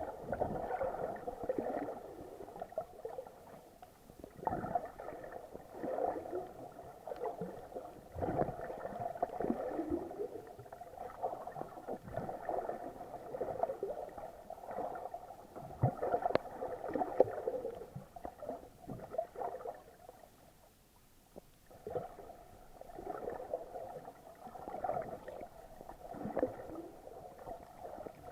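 Muffled water sloshing and gurgling in irregular surges, with occasional knocks, heard through an action camera's waterproof housing while snorkeling. It dies down briefly about two-thirds of the way through.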